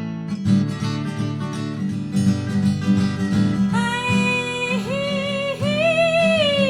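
Acoustic guitar strummed steadily in a folk song, with a long held sung note that comes in about four seconds in.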